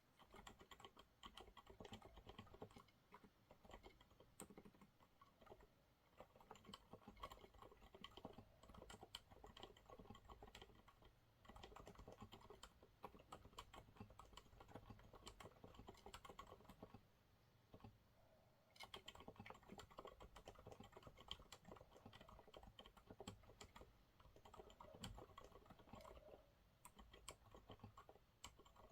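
Quiet, continuous typing on a Monsgeek MG108W mechanical keyboard with TTC silent brown switches: rapid runs of muted keystrokes, broken by a pause of about a second and a half roughly two-thirds of the way through.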